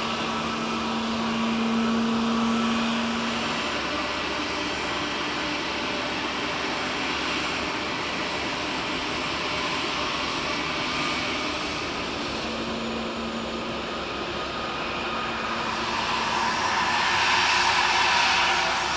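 Jet engines of an Airbus A340-211, four CFM56 turbofans, running with a steady whine that swells louder near the end.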